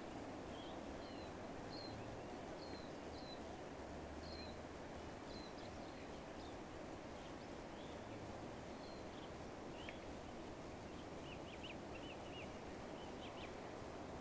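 Small birds chirping in short, high calls over a steady low outdoor hiss; the calls come thicker near the end.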